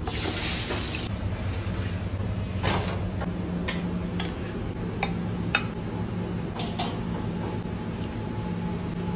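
Potato wedges hitting hot frying oil with a short burst of sizzling, followed by a series of sharp clinks as a metal spatula and utensils knock against a ceramic platter and pan, over a steady low hum.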